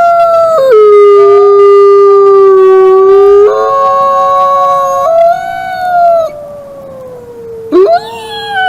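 Several wolves howling together, long held notes at different pitches overlapping, each stepping or sliding to a new pitch now and then. The chorus grows quieter after about six seconds, and near the end one voice swoops quickly upward.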